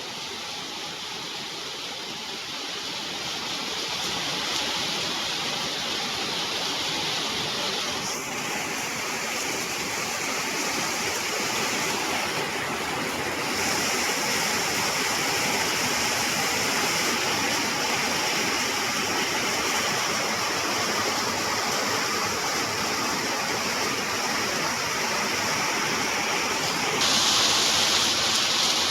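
Heavy rain pouring down in a steady hiss, growing louder in a few steps, the last near the end.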